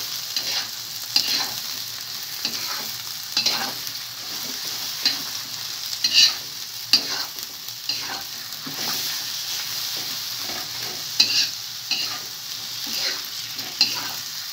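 Beaten egg, sliced onion and tomato sizzling in hot oil in a pan, stirred with a spatula that scrapes and clacks against the pan at irregular moments, several times every couple of seconds.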